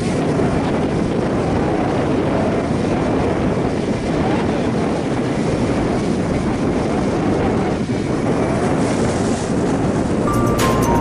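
Strong wind buffeting the microphone in a loud, steady rush. Music starts near the end.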